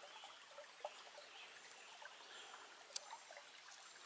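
Faint trickle of a small, shallow creek, with a couple of soft clicks.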